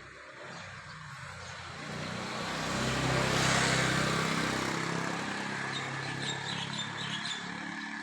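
A motor vehicle passing by: engine and tyre noise that swells to a peak a few seconds in and then fades away. Brief high bird chirps come in near the end.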